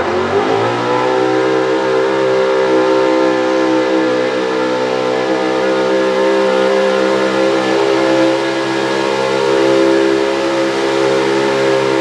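Pro Stock 4x4 pulling truck's engine at full throttle pulling the sled. Its pitch rises briefly at the start, then holds a steady high note.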